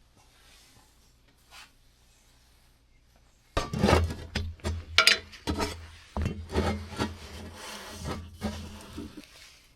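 Rubbing and scraping with scattered light knocks, starting suddenly about three and a half seconds in and stopping shortly before the end.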